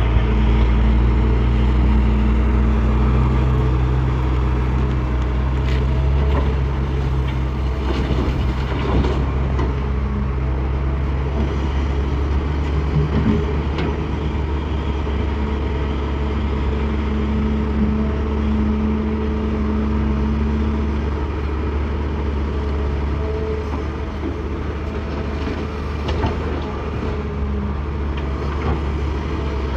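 Hitachi excavator's diesel engine running steadily under load, its pitch shifting slightly as it works, with a few short knocks.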